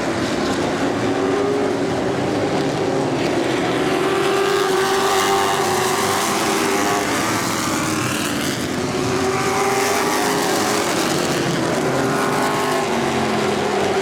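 Several street stock race cars' engines running together on a short oval track, their pitch rising and falling as they accelerate off the corners and lift again.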